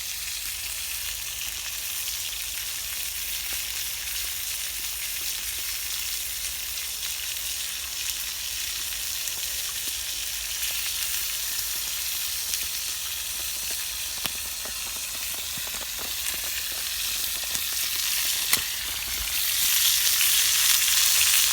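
Food sizzling in a pan over a campfire: a steady frying hiss with a few sharp pops, growing louder near the end.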